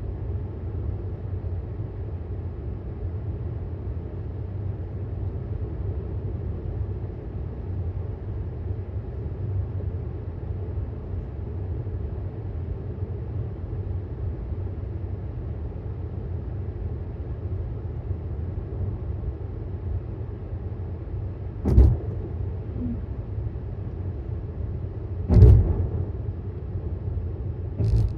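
Steady low road and tyre rumble inside the cabin of a 2018 Tesla Model S 75D electric car driving at road speed. There are three short thumps in the last third, the middle one the loudest.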